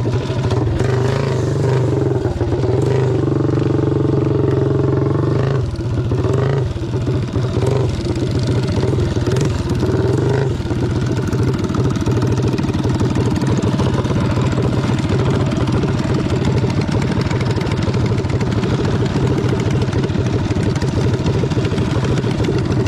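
A motor vehicle engine running steadily. Its pitch shifts a few times in roughly the first six seconds, then it holds even.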